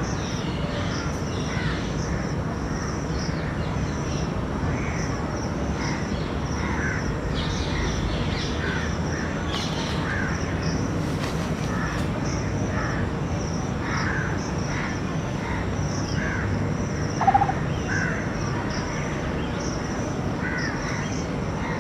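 Birds calling outdoors: short calls about once a second over a steady low rumble and a high, pulsing insect-like buzz, with one louder, harsher call about seventeen seconds in.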